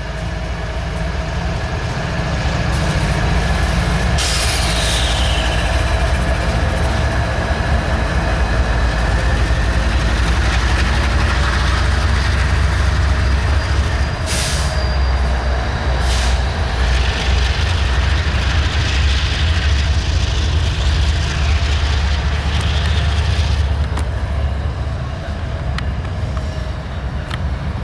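Freight train rolling past at close range: a loud steady low rumble of diesel locomotives and double-stack intermodal cars on the rails, with faint steady wheel squeal and a few brief high-pitched screeches. The rumble eases off near the end.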